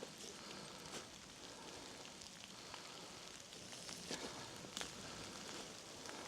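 Quiet woodland ambience: a faint, even hiss with a few scattered soft ticks and clicks.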